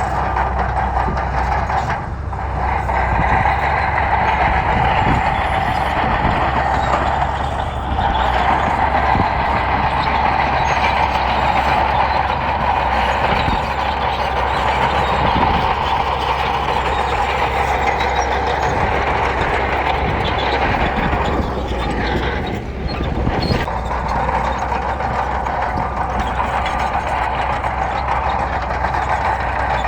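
Heavy bulldozer's diesel engine running steadily under load, its sound dipping briefly three times.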